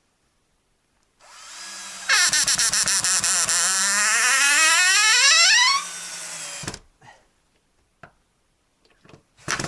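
Cordless drill-driver driving a screw into wood: the motor starts, runs loud with its pitch rising steadily for about four seconds, then stops. A short loud knock follows near the end.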